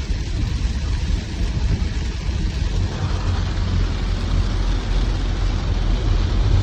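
Heavy rain, a steady hiss over a low rumble, growing fuller about halfway through.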